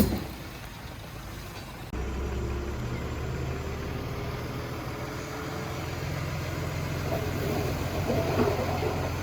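Heavy diesel engine of earthmoving machinery running steadily, with a sharp click at the very start and a jump to a louder, steady engine sound about two seconds in.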